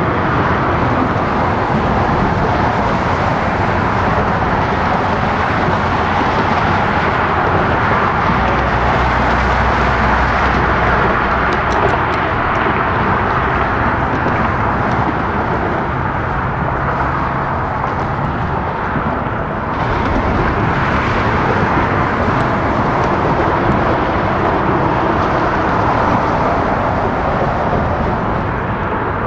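Freight train rolling past, a steady rumble and rush of steel wheels on rail with a brief dip about two-thirds of the way through.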